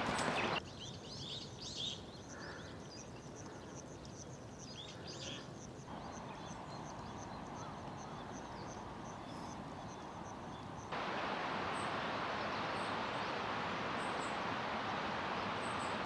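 Small birds chirping and calling over a steady outdoor hiss. About eleven seconds in the background abruptly turns to a louder, even rushing noise, with only a few faint high chirps left.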